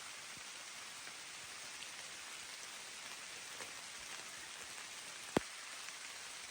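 Steady rain falling, heard as an even hiss, with one sharp tap a little past five seconds in.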